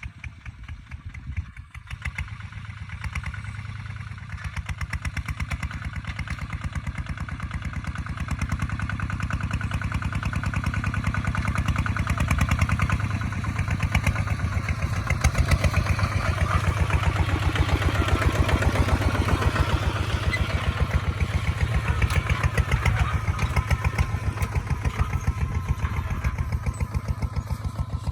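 Kubota ZT155 walk-behind tractor's single-cylinder diesel engine running with a rapid, even thumping while plowing, getting louder over the first dozen seconds and then holding steady.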